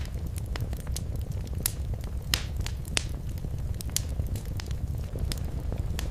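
Wood fire burning in a fireplace: a steady low rumble of flames with irregular sharp crackles and pops, the loudest a little over two seconds and three seconds in.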